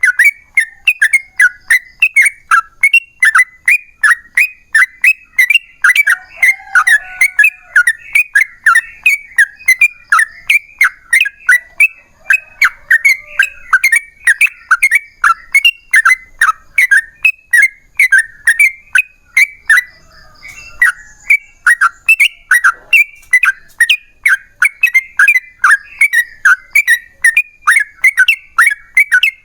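Yellow-vented bulbul (trucukan) singing a long, unbroken run of quick chattering notes, about three a second, with a short break about twenty seconds in: the loud, long 'ropel' song used to provoke other trucukan into answering.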